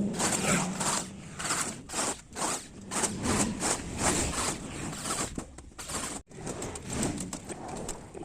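Repeated rough scraping strokes, about two or three a second, with a brief break about six seconds in.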